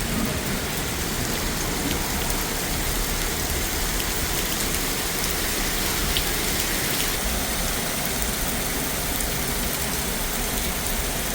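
Heavy thunderstorm rain pouring steadily and splashing on hard ground.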